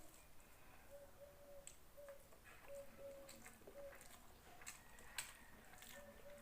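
Quiet eating sounds: scattered small clicks and soft squishes of a meal of rice and dal being eaten and chewed, one sharper click about five seconds in. A faint short note repeats in the background every second or so.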